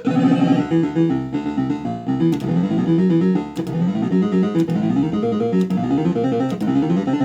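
Bell-Fruit Cash Explosion fruit machine playing its electronic game tune, a fast run of stepping notes, with faint clicks about once a second.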